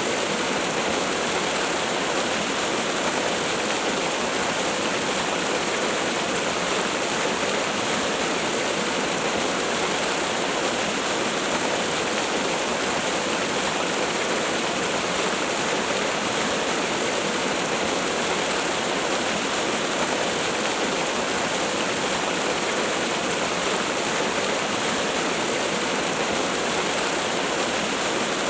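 Waterfall: falling water pouring in a steady, even rush with no change in level.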